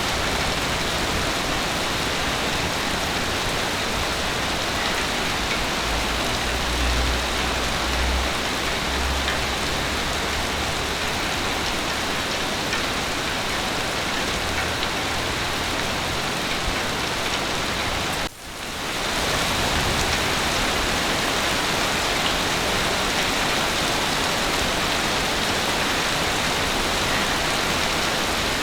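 Heavy rain pouring steadily, an even hiss. It includes a low rumble a few seconds in, and the sound drops out for a moment a little past the middle before fading back in.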